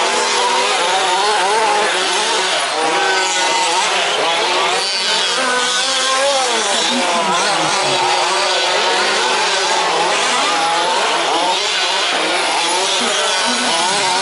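Several 1/5-scale remote-control trucks' small two-stroke petrol engines racing together, each revving up and down so the overlapping pitches rise and fall without a break.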